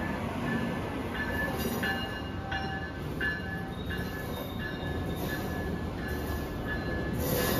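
Train rolling by with a steady rumble, and short, high wheel squeals repeating several times.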